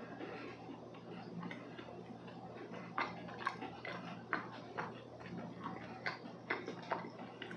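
Close-miked chewing of a soft, moist chocolate walnut cookie with the mouth closed, giving sharp wet mouth clicks about twice a second from about three seconds in.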